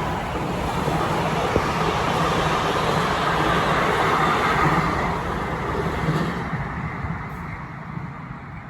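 Freight train running past with a steady rumble of wheels on rails that fades from about five seconds in as it moves away.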